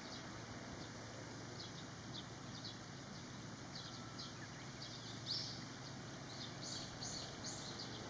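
Birds chirping: a scatter of short, high chirps, the loudest about five seconds in, over steady low outdoor background noise.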